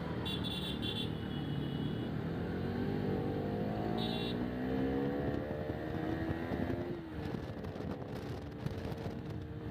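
Motorcycle engine accelerating, rising in pitch for about five seconds before dropping back about seven seconds in, over a steady riding rumble. Short high beeps sound in the first two seconds and again about four seconds in.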